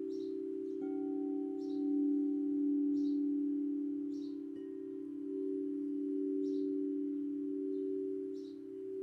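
Singing bowls ringing in a low, steady tone with a slow wavering beat; a bowl is struck again about a second in and once more about halfway. Short high bird chirps repeat about once a second over the ringing.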